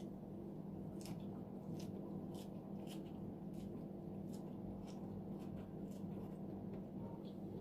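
Close-miked mouth sounds of someone chewing food: short wet clicks and smacks, about two a second, over a steady low hum.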